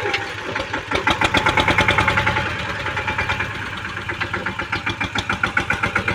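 Tractor engine running with a rapid, even beat of firing pulses.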